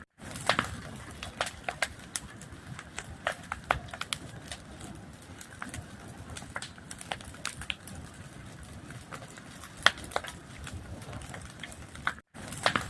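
Wood fire crackling, with irregular sharp pops and snaps over a low steady rustle of burning. The sound cuts out for a moment near the end, like a joint in a loop.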